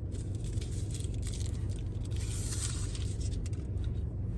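Car interior noise while driving: a steady low rumble of engine and road, with a brief hiss about two seconds in.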